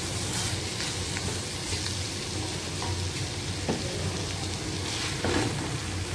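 Thick cauliflower sukka masala sizzling in a steel kadai as a wooden spatula stirs it and scrapes the pan, with a couple of sharper scrapes about three and a half and five seconds in. The dry masala is in its final roasting stage.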